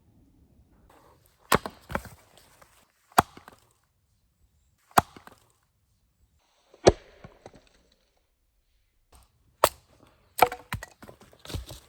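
Wood being chopped: about eight sharp, irregular strikes a second or two apart, some coming in quick pairs.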